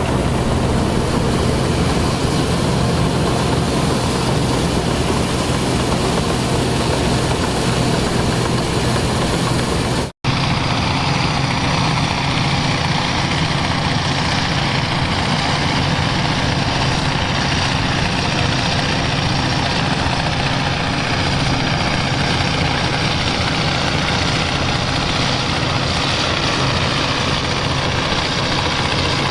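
Engines of heavy vintage farm machinery running steadily. The sound cuts out for an instant about ten seconds in and comes back as a different, brighter-sounding engine.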